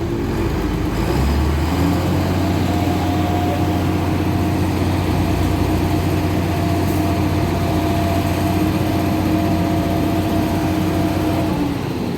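Heavy diesel engine of a concrete mixer truck running steadily. Its speed steps up about a second in, holds at a constant pitch, and drops back near the end.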